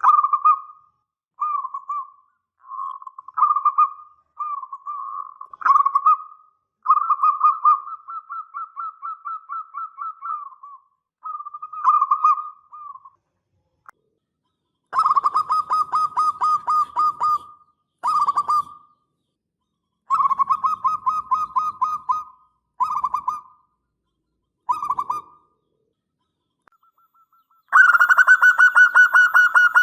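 Zebra dove (perkutut) cooing: a series of short phrases of rapid, rolling pulsed coos separated by pauses, with one longer phrase from about seven to eleven seconds in. In the last two seconds comes a louder, slightly higher-pitched phrase.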